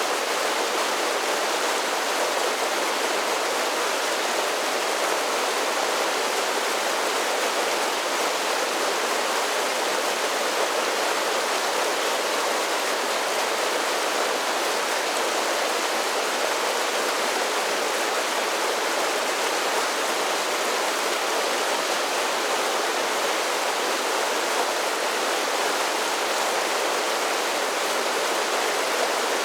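A series of small waterfalls on a mountain creek, water pouring and splashing in a steady, even rush with little deep rumble.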